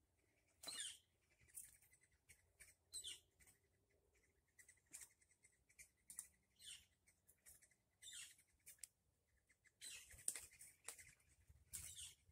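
Faint, scattered chirps of small birds in the trees: a dozen or so short, high notes that slide quickly downward, coming irregularly and bunching together near the end.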